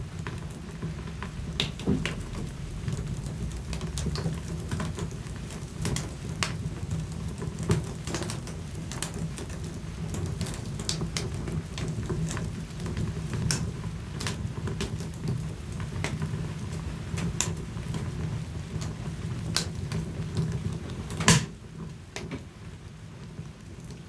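Wood fire burning in a fireplace: frequent irregular crackles and snaps over a low steady rumble of the flames, with one loud pop near the end.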